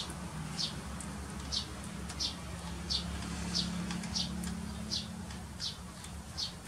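A bird giving the same short, high chirp over and over at an even pace, about one and a half times a second, over a faint low steady hum that fades out near the end.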